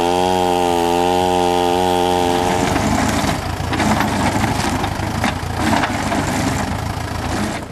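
An old chainsaw running at high revs with a steady, slightly wavering pitch, then turning rough and crackly from about three seconds in. It cuts off suddenly at the end.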